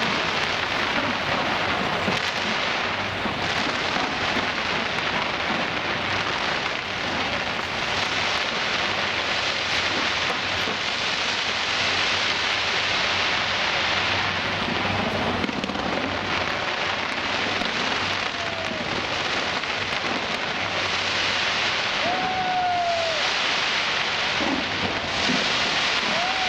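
Fireworks display, a dense unbroken wall of crackling and bursting shells. A few short falling whistles cut through near the end.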